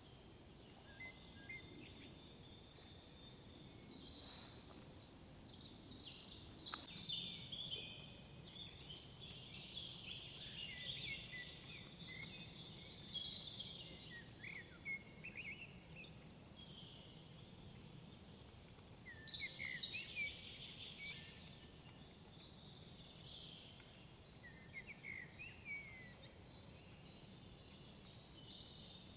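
Songbirds singing in woodland: bouts of twittering song and high trills every few seconds, louder around a quarter, a half and two-thirds of the way through, over a faint, steady low hum of the surroundings.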